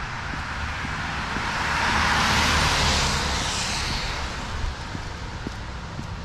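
A car drives past on a wet road: its tyre hiss swells to a peak in the middle and then fades away.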